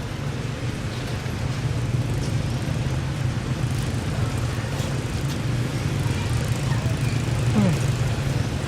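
Steady low hum of a running motor vehicle engine, like nearby road traffic.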